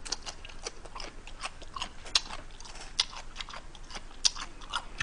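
A person chewing a mouthful of spicy chicken and chewy rice cakes close to the microphone, with wet smacking and clicking mouth sounds at an irregular pace, several a second.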